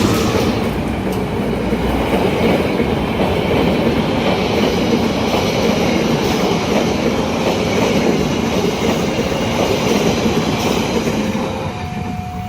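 A train passing fast over a level crossing, a steady loud rumble with wheel clatter on the rails. Near the end the train noise eases and the crossing's warning signal comes through, two alternating steady tones.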